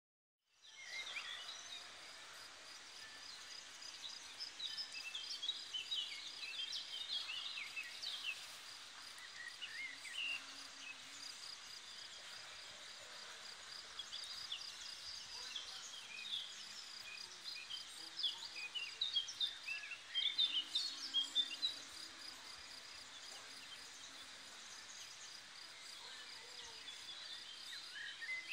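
Several songbirds singing and chirping in a woodland-edge meadow, with a steady high-pitched pulsing trill running underneath.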